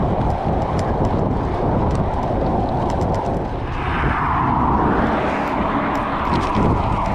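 Riding a gravel bike: wind rushing over the microphone and tyre rumble, with scattered small clicks. About four seconds in, a broader rushing noise swells and then falls away again.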